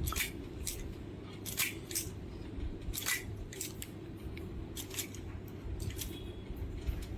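A series of short, sharp snipping clicks at an uneven pace, roughly one or two a second, over a steady low hum.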